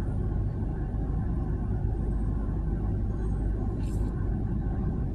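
CSX freight trains rolling past, a steady low rumble. A brief faint hiss about four seconds in.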